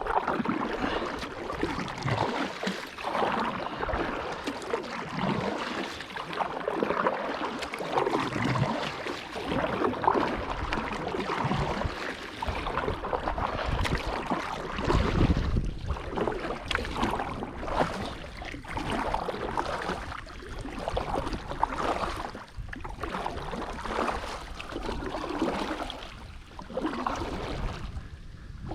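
Kayak paddle working in the water and water splashing and sloshing around the hull, in uneven surges throughout as the kayak pushes a floating tree.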